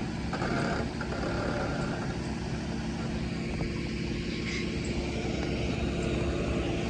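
Tow truck's engine running steadily at idle.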